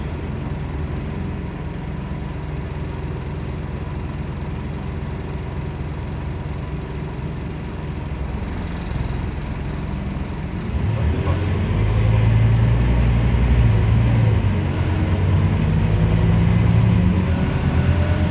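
Diesel engine of a Scania CN270UB city bus, heard from inside, running steadily at low revs. About eleven seconds in there is a short hiss. The engine then gets louder and climbs in pitch as the bus accelerates.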